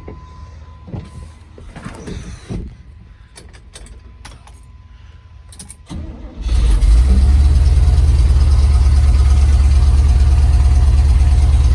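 A few clicks and knocks, then about six seconds in a 350 small-block Chevy V8 with a cam and headers catches on a short crank and settles into a loud, steady idle.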